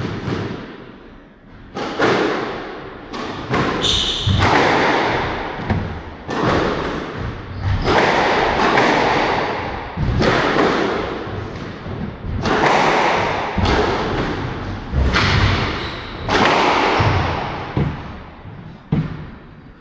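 Squash rally: repeated sharp thuds of the ball struck by rackets and hitting the court walls, irregularly spaced about a second or two apart, ringing in the court.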